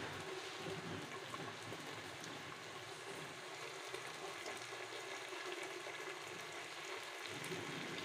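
Washed mash (urad) dal and masala sizzling steadily in hot oil in an open aluminium pressure cooker, a low, even sizzle.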